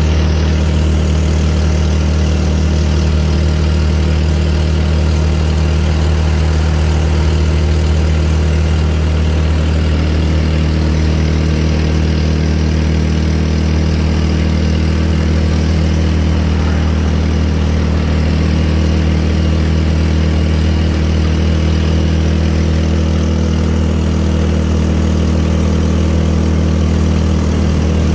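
Motorcycle engine of a Philippine tricycle (motorcycle with sidecar) running at a steady cruise, heard from the back seat as a loud, even drone that holds its pitch.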